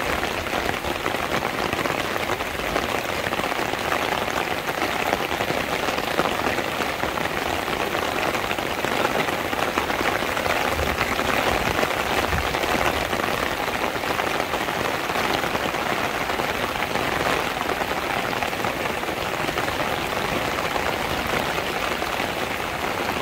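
Steady rain falling: an even hiss of raindrops that holds level throughout.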